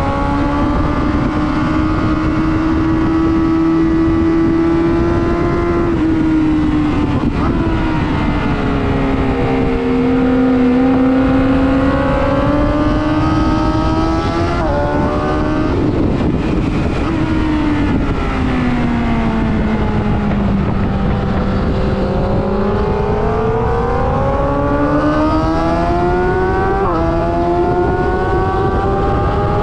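Sport motorcycle engine on a race track, its revs climbing and falling repeatedly as the bike speeds up and slows, with several abrupt pitch jumps as it changes gear. Steady wind rush runs underneath.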